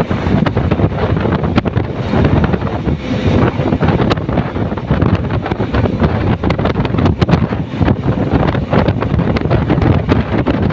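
Wind buffeting the microphone on a motorcycle riding at speed: a loud, steady rush with constant gusty crackling.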